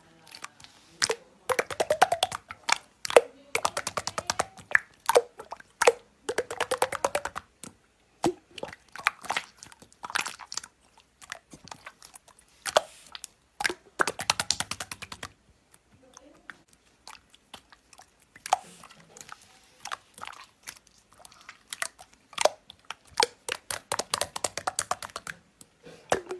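Close-up crunchy chewing: runs of rapid crackling crunches, each lasting a second or two, with short pauses between them.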